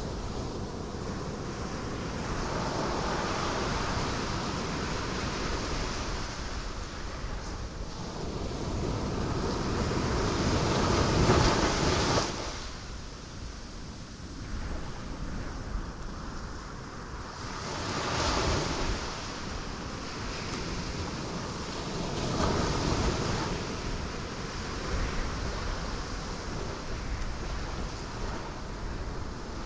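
Ocean waves breaking on rocks: a steady wash of surf with surges, the biggest building to a crash about halfway through and ending abruptly, then smaller breakers later.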